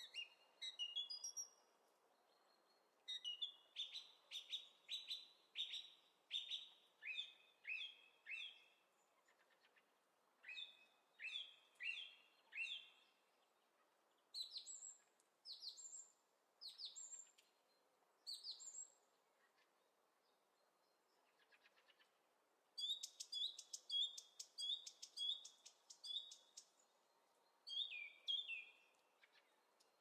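Small bird singing: clear, sharp chirps that each sweep down in pitch, given in runs of several notes with pauses between, and a quicker run of repeated notes near the end. A faint steady hiss lies underneath.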